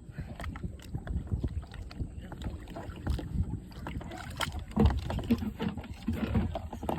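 Water splashing and sloshing around kayaks in the water, with irregular knocks and thumps, the loudest about five seconds in.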